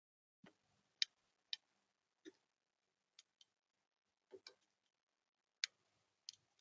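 Sharp taps and clicks on a bird feeder, about ten in a few seconds at irregular intervals, from a bird pecking at the feeder.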